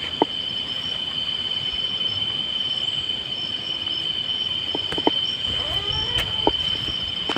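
Night insects calling in a steady, unbroken high-pitched drone, with a few sharp clicks about five seconds in.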